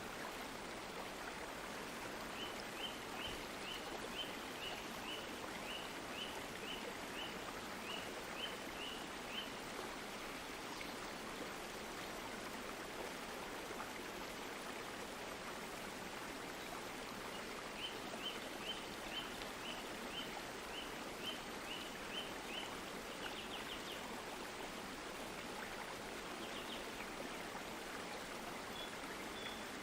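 A stream flowing steadily. Two runs of short high chirps, about two a second, repeat over it.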